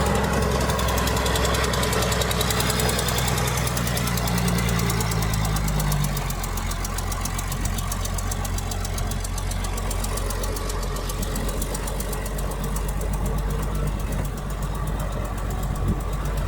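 Heavy diesel engine of earthmoving machinery running under load. It eases off about six seconds in and picks up again near the end.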